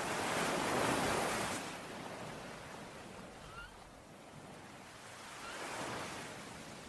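Sea waves washing onto a shore in two surges, the louder about a second in and a smaller one near the end. A bird gives a couple of faint short chirps midway.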